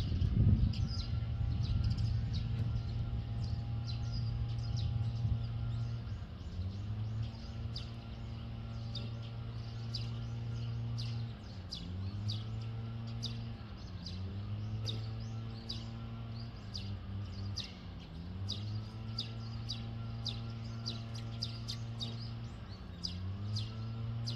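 Small birds chirping repeatedly over a steady low hum that dips briefly in pitch every few seconds.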